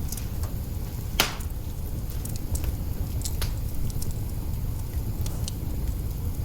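Wood fire crackling in an open hearth: scattered sharp pops and snaps over a steady low rumble, the loudest pop about a second in.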